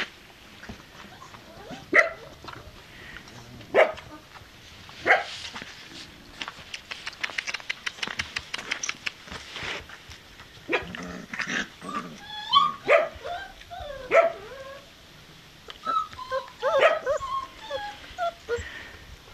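Four-week-old Turkmen alabay puppies yipping and whimpering. A few sharp single yips come first, then a stretch of quick clicking, then a run of short, high, wavering whines and squeals.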